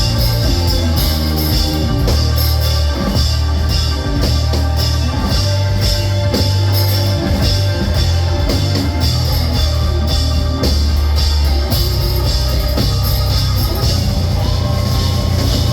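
Live rock band playing an instrumental passage: electric guitar, bass and drum kit, with no vocals.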